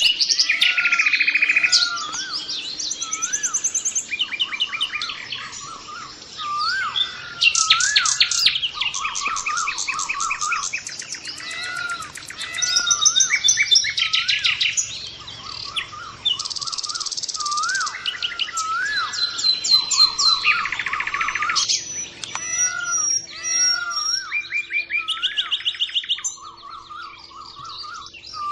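Several birds calling and singing at once: fast high trills and quick series of notes over a short rising-and-falling whistle repeated again and again.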